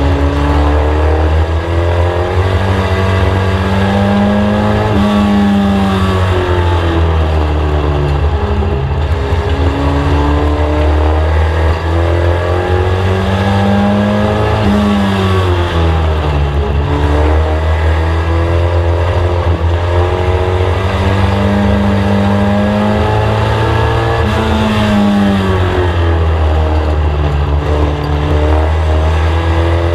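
Inside a Mk1 VW Scirocco race car on an oval, its engine running hard under a heavy low rumble. The engine pitch climbs steadily, then drops off and comes back up about every ten seconds as the driver lifts for the turns and accelerates out of them.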